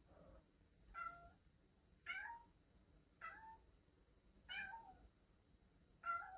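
A cat meowing five times, short faint high-pitched meows about a second apart.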